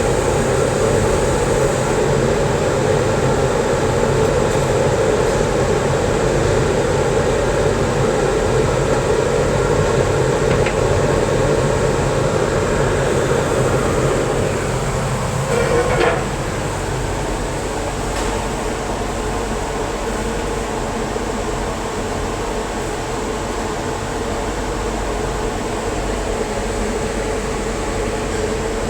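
TIG welding arc buzzing steadily with a mains hum under it. About sixteen seconds in there is a short click, and the sound drops to a slightly quieter steady hum.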